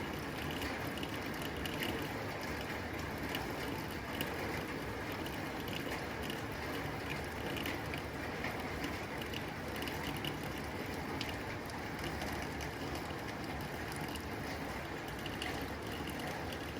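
Rain falling steadily on a tin roof: an even wash of noise with many small, sharp drop ticks scattered through it.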